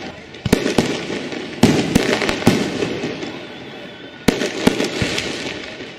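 Fireworks going off: three clusters of sharp bangs, near the start, around two seconds in and past four seconds, each trailing off in a fading crackle.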